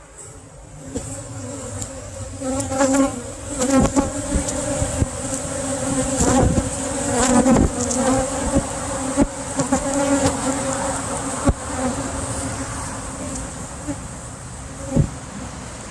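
Honey bees buzzing in a loud, steady drone around an opened hive, swelling about a second in. Several sharp knocks and clicks from the hive being handled cut through the buzz, the loudest near the middle and one near the end.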